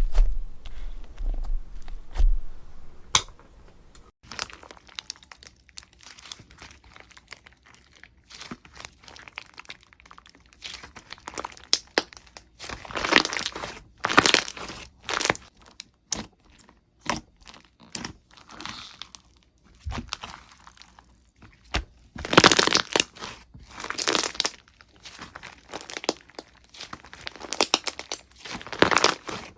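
Slime being squeezed and pressed by hand, making irregular crinkling, crackling sounds that come in clusters, loudest about halfway through and again later on.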